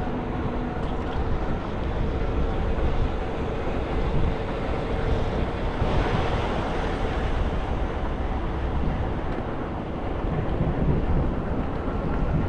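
Inside a moving Muni city bus: a steady rumble of road and motor noise, with a faint steady whine through the first half and a brief swell of noise about halfway through.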